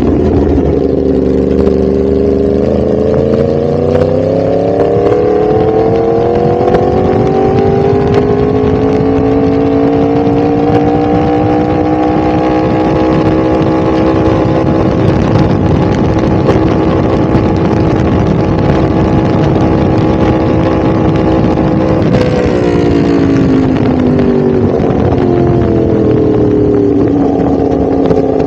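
Yamaha R1's crossplane inline-four engine revved up slowly and held at high revs for a long stretch. Near the end the revs drop back and then pick up a little again.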